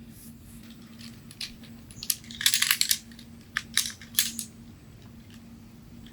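A quick run of light clicks and rattles about two seconds in, followed by a few single clicks, over a faint steady hum.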